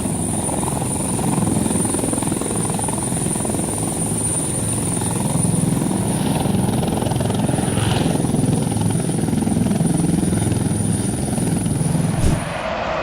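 Helicopter running close by, its rotor beating steadily over engine noise and a thin high whine. The sound cuts off abruptly near the end.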